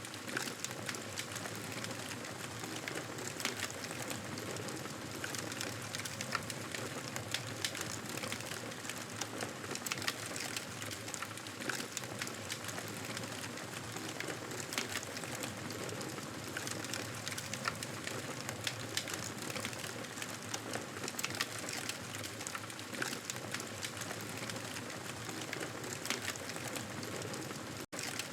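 Wood fire crackling steadily: a continuous hiss scattered with many small sharp pops and crackles, cut by a brief dropout near the end.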